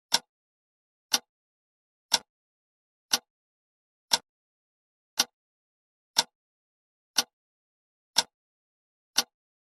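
Countdown timer tick sound effect: one short, sharp tick every second, evenly spaced, with dead silence between ticks.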